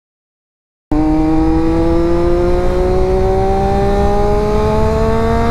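Triumph sport motorcycle's engine under hard acceleration in one gear, its pitch rising steadily and evenly. It starts abruptly about a second in.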